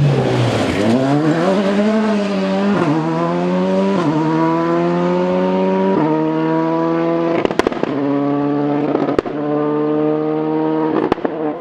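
Rally car engine pulling hard through the gears: its pitch dips briefly at the start, then climbs and drops back at each of several upshifts. A few sharp cracks ring out over it in the second half.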